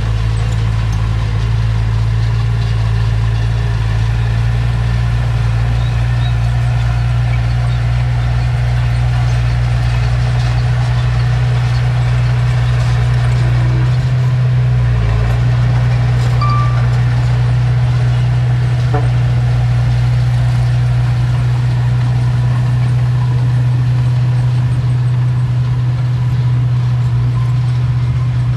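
Heavy diesel engine of earthmoving machinery running steadily, a continuous low drone that holds nearly unchanged throughout.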